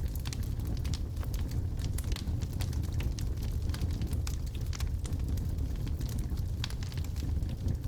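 Wood logs burning in a fireplace: a steady low rumble of the flames with many sharp, irregular crackles and pops from the burning wood.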